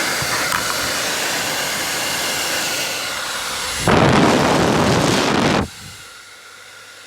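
Professional AC hair dryer blowing with a steady rush of air. About four seconds in it suddenly gets much louder for roughly two seconds, then drops away sharply to a faint hum.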